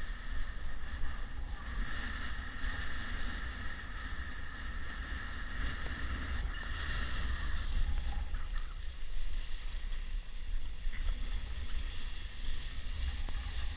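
Wind rumbling and buffeting on the microphone over a steady hiss of waves washing in.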